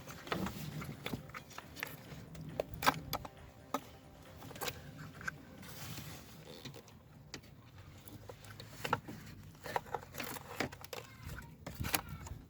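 Scattered light clicks and knocks, irregular and unevenly spaced, of hands working on vacuum hoses and fittings around the turbo vacuum solenoid valve in an engine bay.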